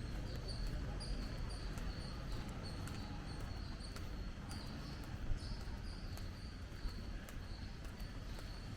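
A bird repeating a short, high chirp about two to three times a second, over the low, dull thuds of footsteps.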